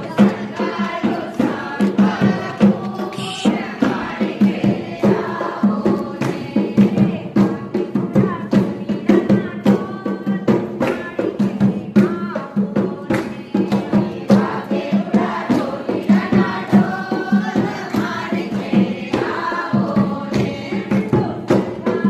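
A group singing a devotional garba song at a satsang, with a steady beat of sharp percussive strikes under the voices.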